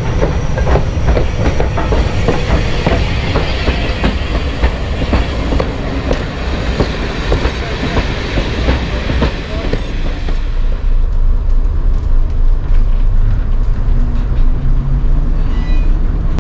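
Steam-hauled train of coaches rolling past, wheels clacking over the rail joints in a fast irregular patter. About ten seconds in this gives way to a steady, duller diesel multiple unit engine running, heard from inside the railcar.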